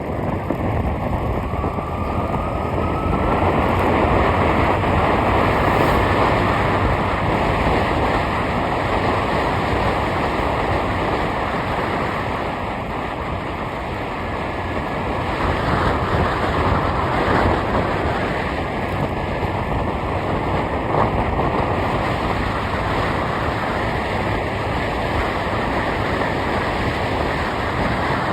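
A vehicle on the move: steady road and wind rush, with a faint whine rising over the first three seconds.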